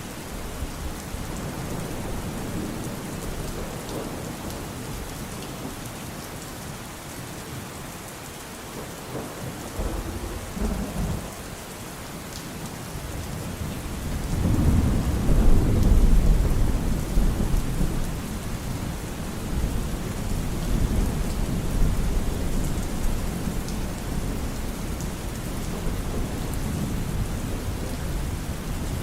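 Steady rain falling with thunder: a couple of short low rumbles, then about halfway through a loud roll of thunder that swells, peaks and rumbles on more softly.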